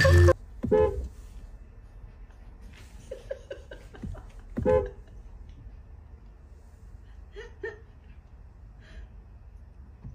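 Several short meows from a cat, spread out a few seconds apart, with a small cluster of quick ones in between; music stops just at the start.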